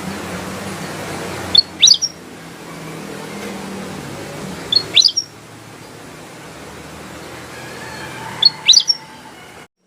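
Kutilang emas bulbul giving three short, quick whistled calls, each a fast up-and-down glide, about three seconds apart, over a low steady hum that fades about halfway through.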